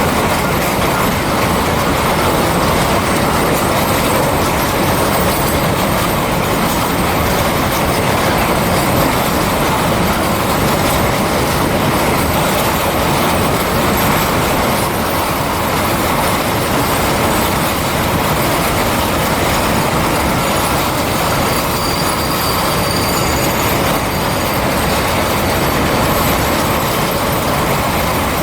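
Loaded phosphate freight train rolling past steadily, its wheels and wagons making a continuous rumble, with a faint, brief wheel squeal about three-quarters of the way through.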